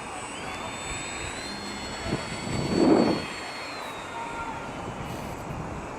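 Small electric radio-controlled aircraft's motors whining high, the pitch rising early on and falling again near the middle, with a louder rushing swell about three seconds in.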